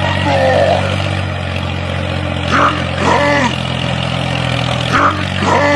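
Tractor engine running steadily with a low hum, and a few short high-pitched voice-like cries over it: about half a second in, twice around three seconds, and near the end.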